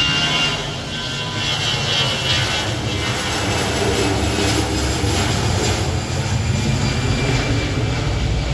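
An aeroplane's engines running: a steady rumble with a faint high whine over it.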